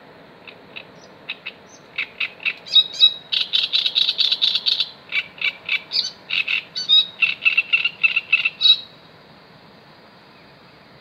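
A bird calling in a long series of short, repeated notes: a few spaced notes at first, then a quick, dense run for several seconds, stopping abruptly near the end.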